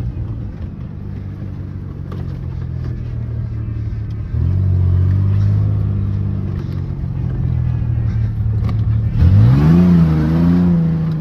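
Ford Ranger pickup's engine running with its exhaust half pulled off and leaking, revving up about four seconds in and climbing sharply in revs again near the end.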